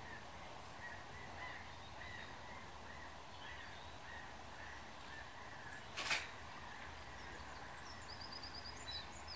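Small birds calling in the background: a short note repeated about twice a second, then a quick high trill near the end. A single sharp sound stands out about six seconds in.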